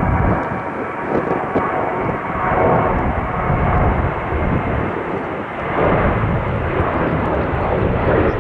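Airliner engines running loud as an aircraft passes at an airport, with gusty wind rumbling on the microphone.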